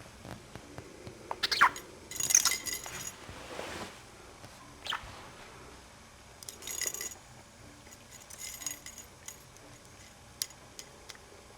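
Budgie giving a couple of short falling chirps, with small metallic jingles and clinks three times, as of a toy ball with a bell being knocked about.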